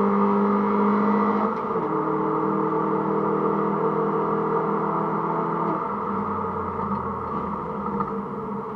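Mini Cooper S R53's 1.6-litre four-cylinder engine heard inside the cabin, holding a steady note that drops suddenly to a lower steady note about a second and a half in. After about six seconds it falls away to a low rumble.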